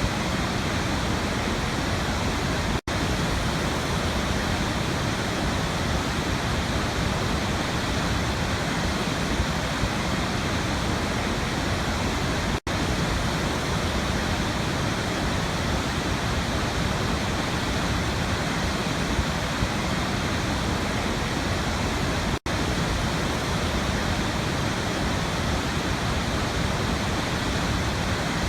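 Waterfall: a steady, even rush of falling water, broken three times, about ten seconds apart, by a split-second drop-out.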